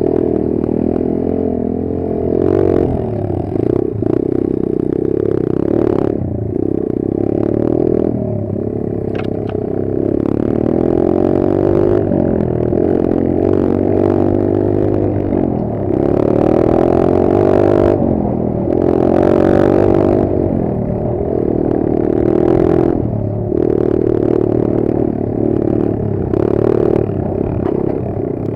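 Kayo 140 pit bike's single-cylinder four-stroke engine running under changing throttle, its pitch rising and falling again and again as the bike is ridden, with scattered clattering knocks from the bike over rough ground.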